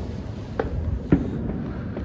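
Distant fireworks going off: two bangs, the louder about a second in, over a steady low rumble.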